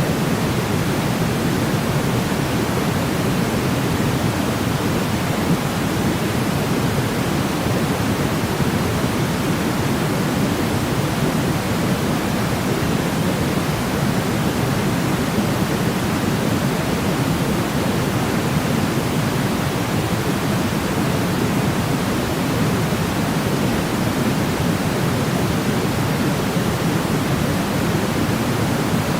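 Steady synthetic sleep noise: a constant, unchanging hiss weighted toward the low end, like pink noise, with nothing else in it.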